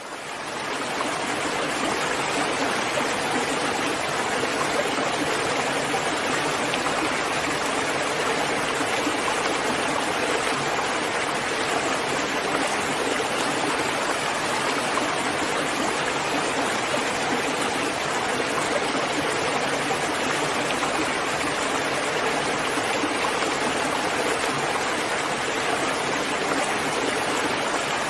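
Steady rainfall, an even hiss of falling water that fades in over the first second or so.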